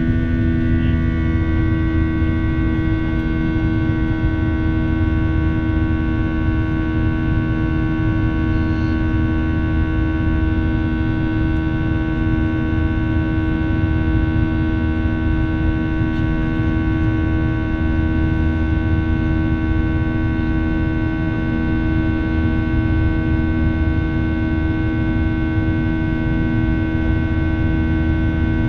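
Jet airliner's engines heard from inside the passenger cabin during the climb: a steady drone of several held tones over a low rumble, with a few of the higher tones shifting slightly about a second in.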